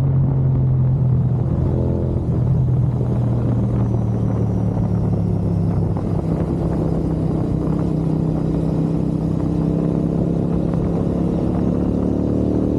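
Royal Enfield GT 650's 648 cc parallel-twin engine running through a Gurusewak aftermarket exhaust, a steady, deep exhaust note at constant revs that rise slightly near the end.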